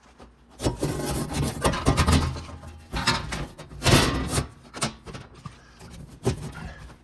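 A bent sheet-metal floor-pan patch scraping and clunking against the truck's floor as it is pushed into place for a test fit. The rubbing comes in irregular bursts with a few sharp knocks, the loudest about four seconds in.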